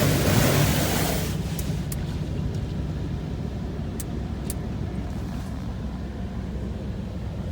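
Rinse water spraying against the truck, heard from inside the cab, dying away about a second in. A steady low hum remains, with a few faint ticks.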